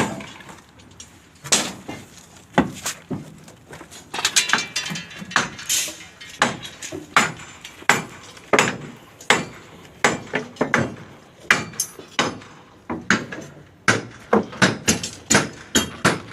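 Hammer blows, loud and irregular, often several a second in quick runs.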